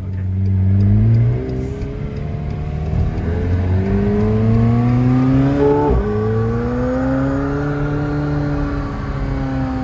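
McLaren 720S Spider's twin-turbo V8 heard from inside the cabin while accelerating. Its pitch climbs and falls sharply at gear changes, about a second in and again about six seconds in, then climbs gently and eases off near the end.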